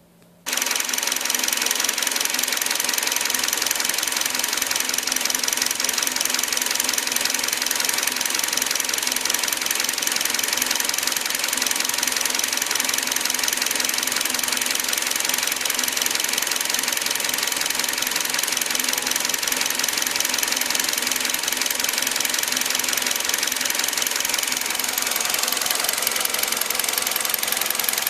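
2013 Hyundai i20 engine running steadily with a fast, even ticking clatter. It cuts in abruptly from near silence about half a second in.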